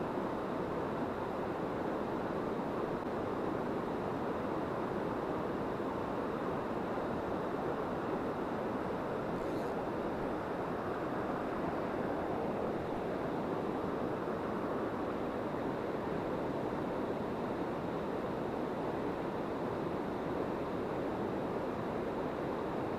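Steady rushing of a mountain river's flowing water, an even noise that holds constant throughout.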